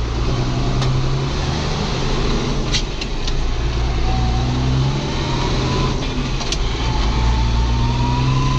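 Ford TW tractor's diesel engine running steadily, with a thin whistle that slowly rises in pitch from about four seconds in, and a few sharp clicks.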